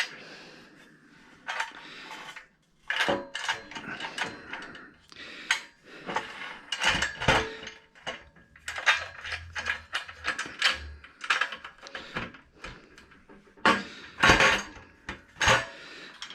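Small metal parts clinking and knocking irregularly as angle brackets and their fasteners are handled and fitted onto the frame.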